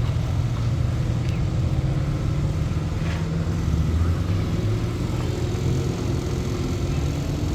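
A large engine idling with a steady, low rumble.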